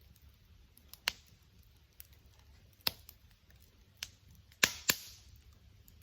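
Wood fire crackling: a handful of sharp single pops about a second apart, the two loudest in quick succession near the end, with faint ticks between.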